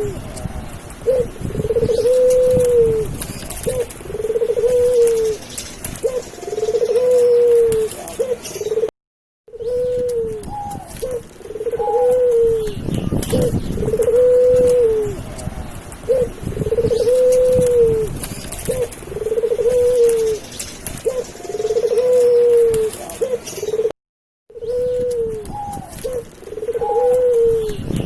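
Dove cooing over and over, each coo a short arching call with a few shorter notes in between. There are two brief breaks of complete silence, about nine seconds in and near the end.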